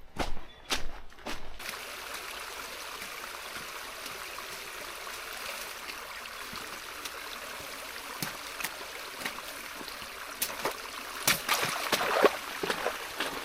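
A few footsteps, then a creek running with a steady rushing sound that starts suddenly. Scattered knocks are heard over it, and a louder cluster of knocks and splashes comes near the end.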